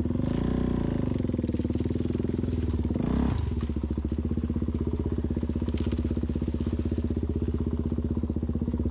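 Suzuki DR-Z400 dirt bike's single-cylinder four-stroke engine running at low, steady revs, with the revs rising and falling about half a second in and a short blip of throttle about three seconds in.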